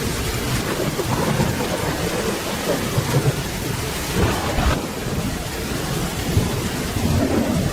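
Steady rain with low, rolling thunder rumbling through it, swelling a little in the middle.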